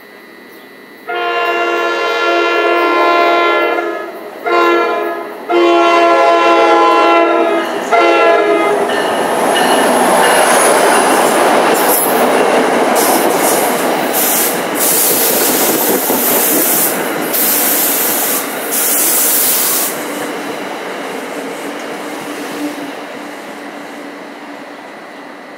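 Alstom PL42AC diesel locomotive, EMD 710 engine, sounding its horn in four blasts, long, short, long, short, as it approaches the platform. The locomotive and its Comet V coaches then roll past close by with loud wheel and rail noise and clicks, quieting over the last few seconds as the train comes to a stop.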